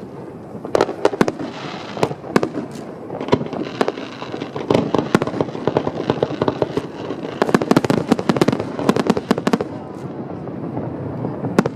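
Aerial fireworks shells bursting in rapid, overlapping bangs and crackles, densest in a barrage through the middle, then thinning to a few scattered bangs near the end.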